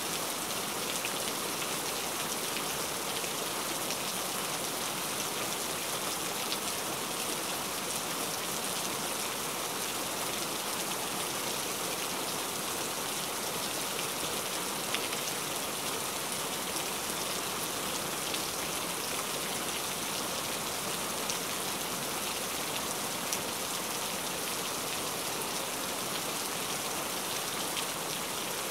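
Heavy rain falling steadily: an even hiss with a few slightly louder drop taps scattered through it.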